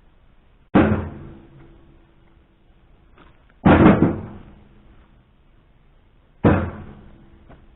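Three heavy knocks of firewood chunks, about three seconds apart, each dying away with a short ringing tail.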